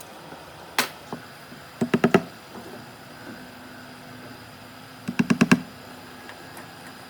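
Sharp knocks on wood from woodworking: one single knock, then a quick run of four about two seconds in, and another quick run of five or six a little past halfway.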